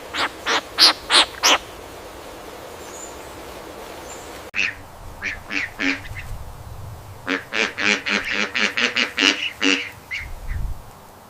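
A bird calling in short, repeated calls: a quick run of about five calls, then after a break a longer run that grows faster and denser.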